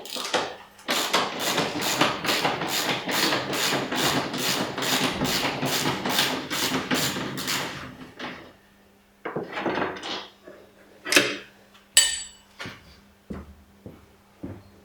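Hand-tool work on a BMW X5 E53's front anti-roll bar bushing bracket bolts: a fast, regular run of metal strokes, about three a second, for some seven seconds, as a bolt is worked loose. After that come scattered metal clicks and knocks and a short ringing clink.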